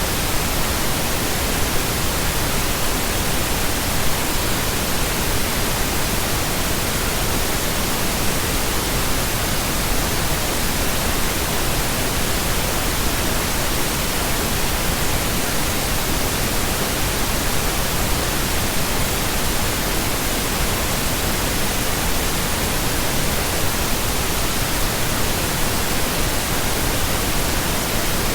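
Pink noise: a steady, even hiss across the whole range of pitch, with no change or break.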